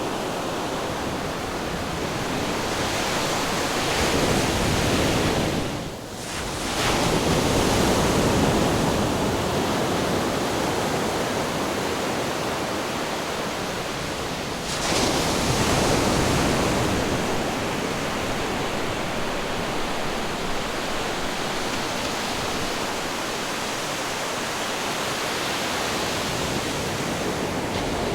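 Ocean surf and wind rushing continuously, swelling a few seconds in and again about halfway, with a brief drop in level just after the first swell.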